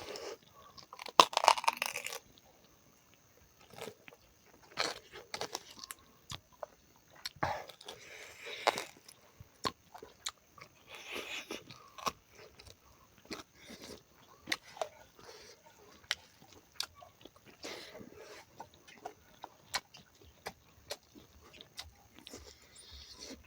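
A person chewing and crunching pork leg at close range, with irregular sharp clicks and several louder bursts of chewing between quieter stretches.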